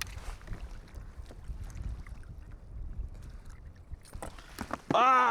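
Wind buffeting the microphone on a kayak at sea, a steady low rumble with scattered faint clicks and knocks. Near the end a man shouts in delight, "Ah, yes!"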